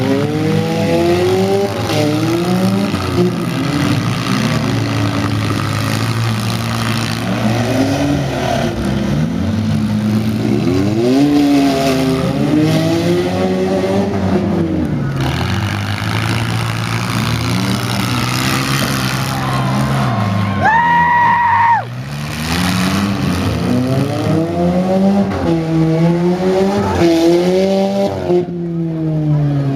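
Several minivan and mini-truck engines revving hard and falling back, over and over, in a demolition derby heat. A steady high note sounds for about a second about two-thirds of the way through.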